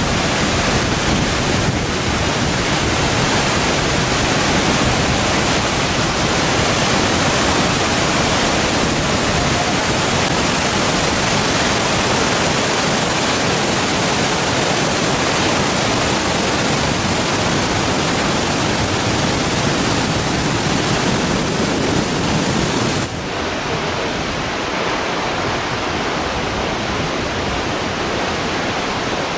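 Waterfall's steady rush of falling water, a loud even noise. About three-quarters of the way through it drops a little in level and loses its highest hiss.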